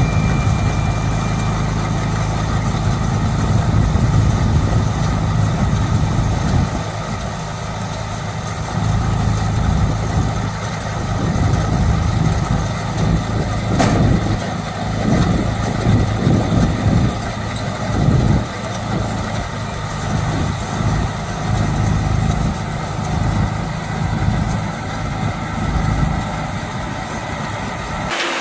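A compact tractor's diesel engine running steadily, driving a mini round baler through the PTO, with the baler's mechanism knocking again and again, roughly once a second, from about a third of the way in.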